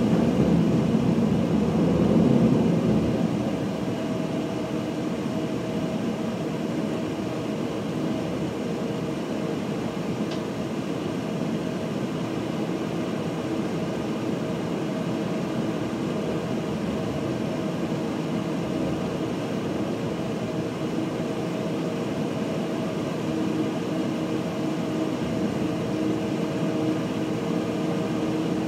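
Steady running noise of a train heard from inside its front cab while rolling through a yard. It is a whir with a few held tones, a little louder for the first three seconds and then even.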